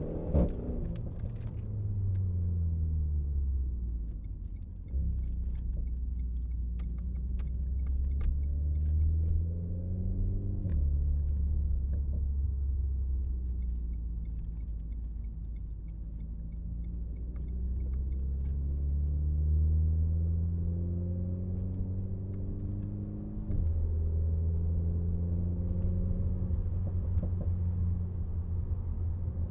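Renault Megane RS Trophy's turbocharged four-cylinder engine running at low to moderate revs through city traffic. Its low drone slowly falls and rises in pitch with speed and changes abruptly three times as gears are shifted. Faint scattered clicks are heard early on and about a quarter of the way in.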